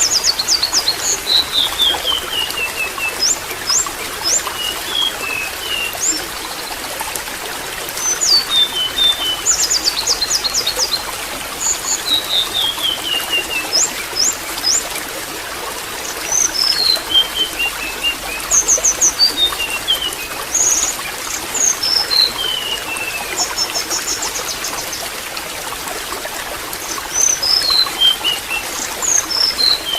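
Water trickling steadily, with small birds chirping over it: repeated runs of short high notes that step down in pitch, and quick sharp chirps every second or two.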